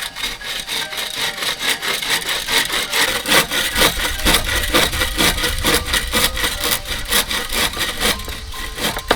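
Hand saw cutting through bamboo in quick, even back-and-forth strokes.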